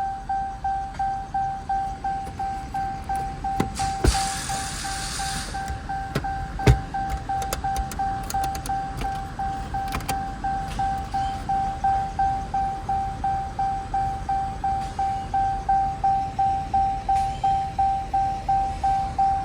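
An electronic warning chime dinging steadily at a little over two dings a second on one pitch, each ding fading before the next, typical of a car's door-ajar or key chime. A few sharp knocks sound about 4 and 7 seconds in.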